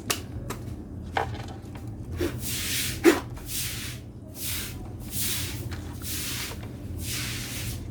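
Rhythmic scraping strokes on a part, repeating about once a second, with a few sharp knocks, the loudest about three seconds in.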